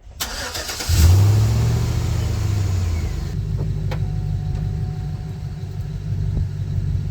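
Full-size Chevrolet SUV's V8 engine starting: a short crank, then it catches with a brief rev flare about a second in and settles into a steady idle.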